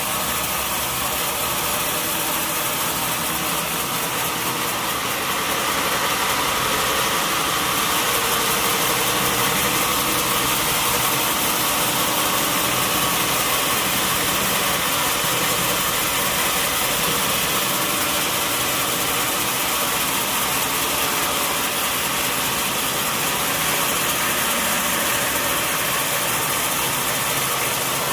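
Sawmill machinery running steadily: a loud, even mechanical noise that gets slightly louder about six seconds in.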